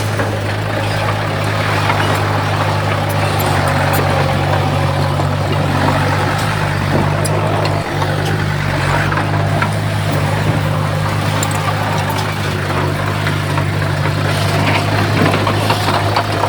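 Heavy construction-machine diesel engine running steadily with a constant low drone, the level dipping only briefly about halfway through.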